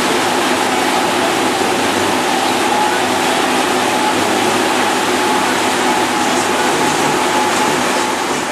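Steamboat's steam whistle blowing: a loud, steady rush of steam with a held chord of whistle tones over it.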